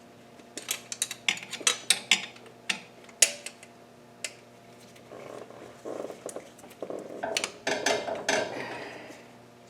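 Hand wrench working an intake manifold bolt into the aluminium cylinder head: irregular light metallic clicks and clinks, then from about five seconds in a denser stretch of scraping and rattling with more clicks.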